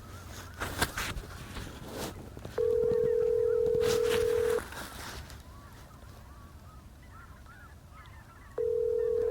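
A steady electronic beep on one pure, medium-low tone sounds twice, about two seconds each time; the second starts near the end. Faint snow geese call in the background between the beeps.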